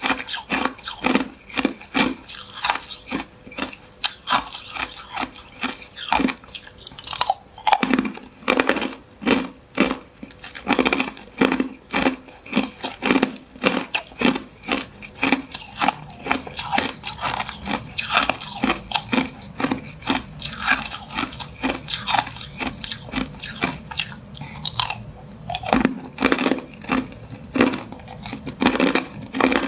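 Hard clear ice being bitten and chewed: sharp crunches in quick succession, several a second, without a break.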